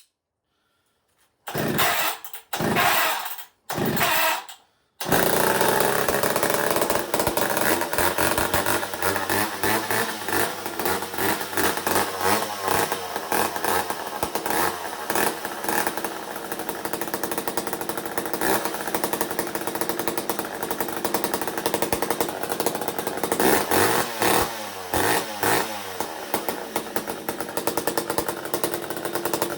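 McCulloch Pro Mac 55 two-stroke chainsaw cold-starting: it fires briefly three times, catches about five seconds in and keeps running, with a few blips of the throttle near the end.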